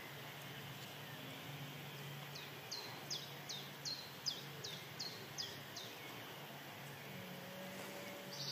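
A small bird singing a run of about nine quick, high notes, each sliding downward, over roughly three seconds, above a steady low background hum.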